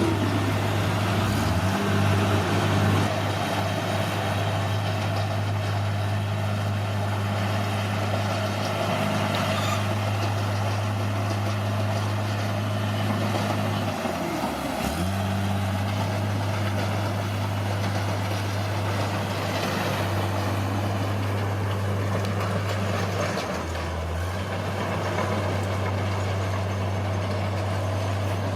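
Bulldozer's diesel engine running steadily at working revs. Its pitch dips briefly and recovers three times: about a second and a half in, around halfway, and again later on.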